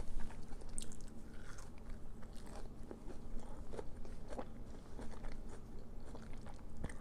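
A person biting and chewing crispy oven-baked onion rings, with irregular crisp crunches throughout.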